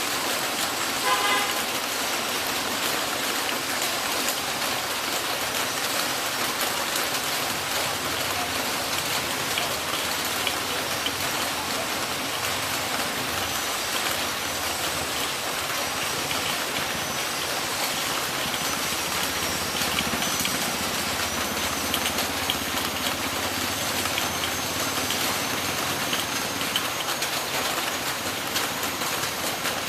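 Heavy rain falling steadily, a dense even hiss of drops, with a short pitched call or tone about a second in.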